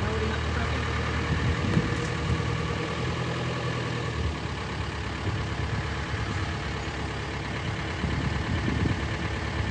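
Vehicle engine idling with a steady low hum, which eases a little about four seconds in.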